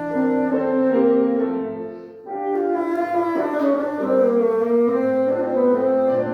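Bassoon playing sustained melodic notes with piano accompaniment, with a brief breath-break in the phrase about two seconds in.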